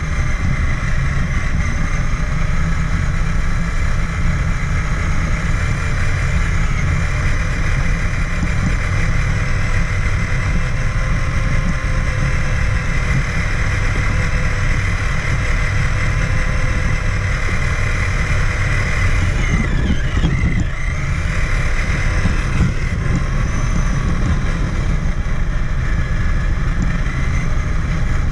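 Traxxas Summit RC truck's electric motor and gears whining, heard from a camera mounted on the truck, the pitch rising and falling with the throttle over a steady low rumble. About twenty seconds in the whine drops sharply and climbs back.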